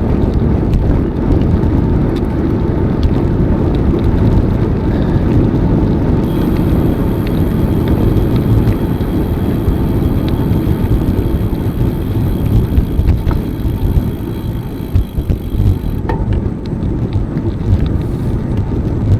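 Wind rushing over the microphone of a moving bicycle, a steady low rumble with the bike's rolling noise underneath.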